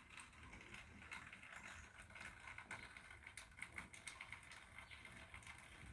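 Near silence, with faint scattered clicks and ticks over a low rumble.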